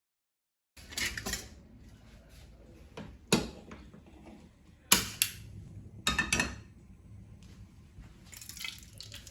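Kitchen clatter: dishes and utensils knocking and clinking, a handful of sharp clinks a second or two apart, after about a second of dead silence.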